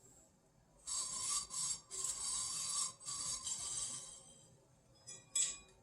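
Ceiling fan motor being spun, its dry shaft bearing giving a high-pitched metallic squealing and grinding in four strokes lasting about three seconds: the fan's recurring noise, a sign of a bearing that needs oil. Two light clinks follow near the end.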